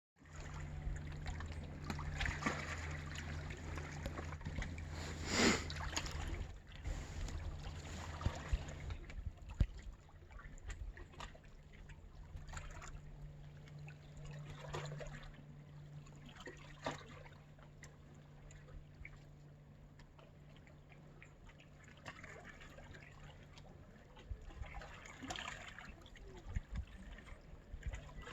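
Small sea waves washing and lapping against the shore, one wash every few seconds. A low steady hum runs underneath through the first half and then fades.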